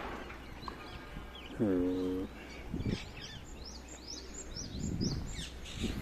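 Small birds calling, a quick run of short high notes that each fall in pitch, clustered in the second half; a brief hummed voice-like tone about two seconds in.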